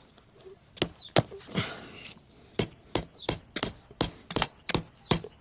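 Metal tent stake being hammered into the ground, each blow ringing with a high metallic ding. There are two blows about a second in, then an even run of about three blows a second from around halfway.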